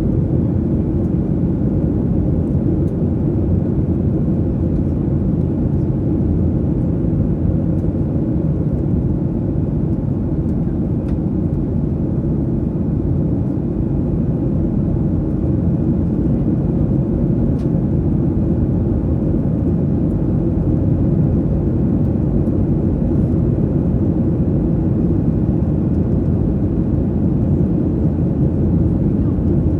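Steady low rushing cabin noise of a Boeing 737-800 airliner in flight, engines and airflow running evenly.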